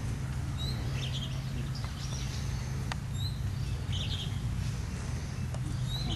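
Birds chirping in short calls every second or so over a steady low rumble, with one sharp click about three seconds in.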